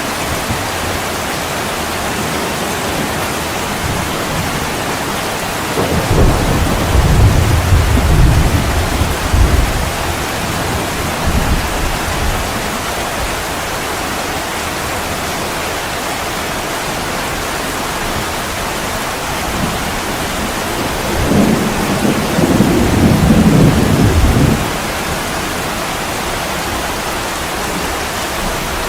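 Steady heavy rain falling on a window, with two low rolls of thunder, each lasting several seconds: one about six seconds in and another past the two-thirds mark.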